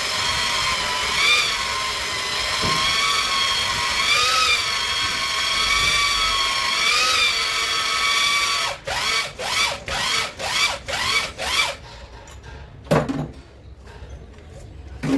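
Power drill spinning a cylinder hone in a Cummins 6BT engine bore, a steady whine that dips in pitch and recovers every few seconds as it takes load. Later it cuts in and out in about seven short bursts and stops, followed by two knocks.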